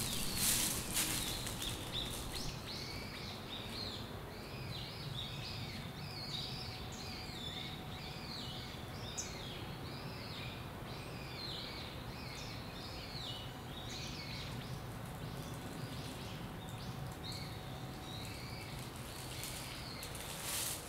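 Small birds chirping, a dense run of many short high calls that fades out near the end, over a steady low background noise.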